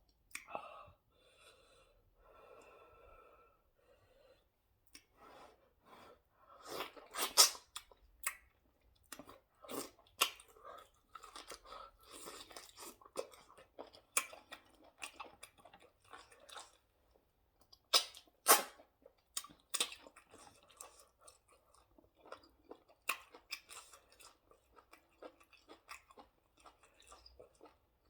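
Close-up mouth sounds of a person eating fufu with ogbono soup: wet chewing, lip smacks and clicks that come irregularly, with a few sharper, louder smacks about seven seconds in and again around eighteen seconds.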